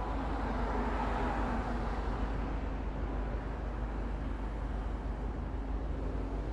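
Low, steady rumbling drone with a broader swell about a second in: the unexplained noise heard coming from the sky.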